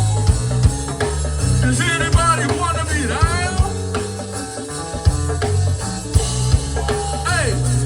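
Live gospel go-go band playing: a heavy bass line and a steady drum-kit beat, with a melodic line sliding in pitch over it about two seconds in and again near the end.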